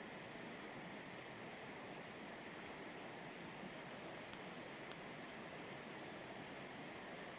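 Steady rush of water pouring over a river rapid, with a few faint clicks.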